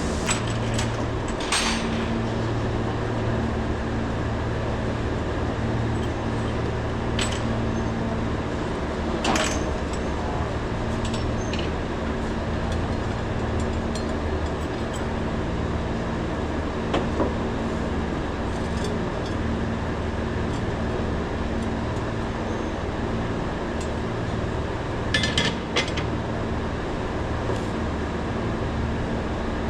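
Steady low machine drone, with a few sharp metallic clinks of tools and parts now and then, twice close together near the end.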